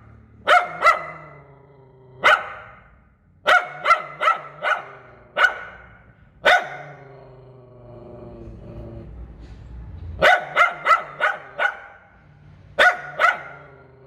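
A dog barking repeatedly: short sharp barks in quick clusters of two to five, with pauses between the groups.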